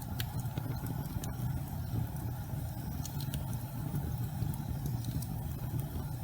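Fireplace fire burning with a steady low rumble and a few faint, sparse crackles.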